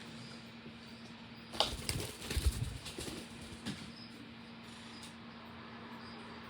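Tarot cards being handled: a burst of rustling and soft knocks from about one and a half to four seconds in, over a steady low hum.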